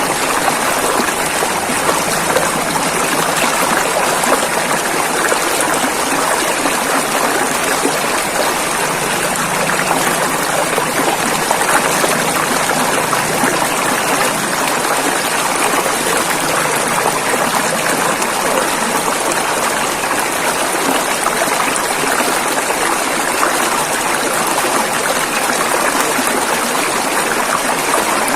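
River water rushing over rapids, a steady splashing and burbling with no pauses or changes.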